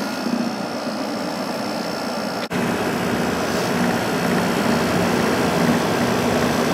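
Emerson Quiet Kool 6,300 BTU window air conditioner running: a steady motor hum over the rush of air from the fan, with a vibration that the owner puts down to a worn thrust washer letting the motor shaft move in and out. The sound cuts out for an instant about two and a half seconds in, then comes back a little louder.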